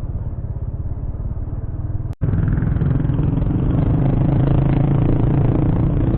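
Motorcycle engine running while riding. It cuts out abruptly about two seconds in, then comes back louder with a steady pitch.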